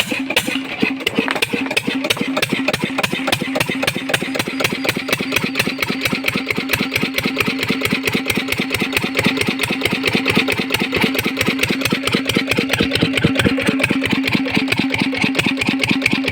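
Lister 10 hp single-cylinder diesel engine, just self-started, running with evenly spaced firing beats that quicken over the first few seconds and then hold steady.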